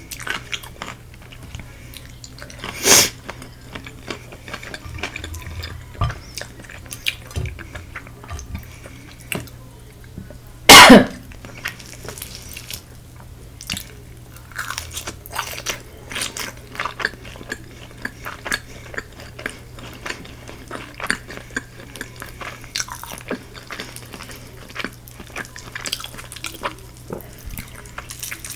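Close-up chewing and crunching of Korean fried chicken, a steady run of small crackly crunches and mouth clicks. Two louder brief sounds stand out, about three seconds in and about eleven seconds in, the second the loudest.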